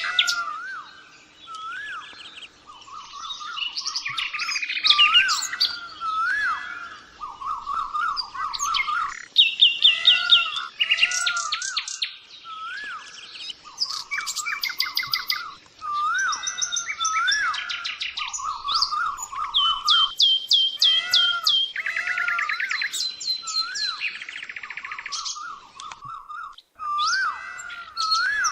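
Birds chirping and singing without a break, many calls overlapping, with quick runs of repeated notes and warbling phrases.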